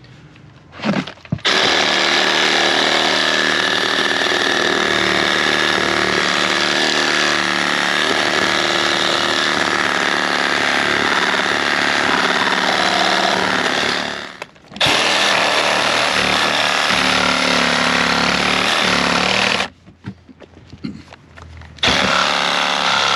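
Milwaukee M12 Hackzall one-handed reciprocating saw with a demolition blade cutting through nails in wooden boards. It runs steadily in three stretches, stopping briefly about halfway through and again for about two seconds near the end.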